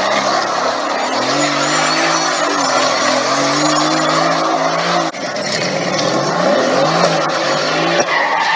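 Car engine revving with tyres skidding and squealing over a loud rush of road noise. The sound breaks off abruptly about five seconds in and picks up again.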